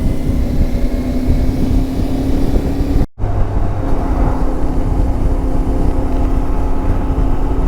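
Motorcycle engine running at a steady cruise, one held tone over heavy wind rumble on a helmet microphone. The sound drops out abruptly for a moment about three seconds in, then resumes the same.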